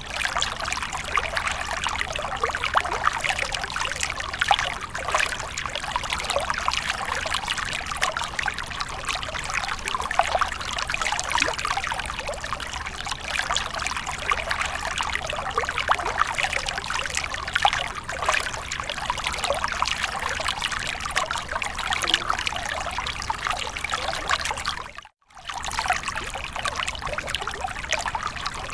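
Water splashing and trickling continuously, full of small crackling splashes. It cuts out abruptly for about half a second near the end, then resumes.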